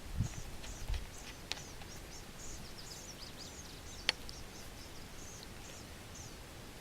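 Small birds chirping repeatedly in short, quick calls, with a few sharp clicks, the clearest about four seconds in.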